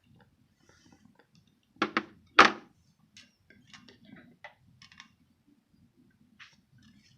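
Hospital meal tableware being handled: three quick knocks about two seconds in, the last the loudest, then light scattered clicks.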